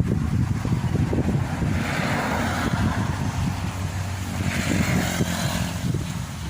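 Maxxi Bimo 102 rice combine harvester's engine running steadily under load, with a dense low rumble and two brief swells of higher hiss, about two and five seconds in.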